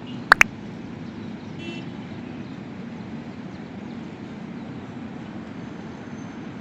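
Steady low rumble of outdoor ambience, traffic-like. Two sharp clicks come close together about a third of a second in.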